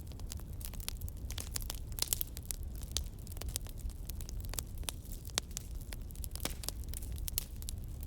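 Campfire crackling: frequent irregular sharp pops and snaps over a steady low rumble.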